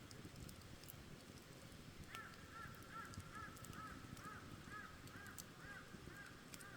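Faint campfire crackle with scattered small pops, and from about two seconds in a bird calling in a quick series of short repeated notes, about two and a half a second.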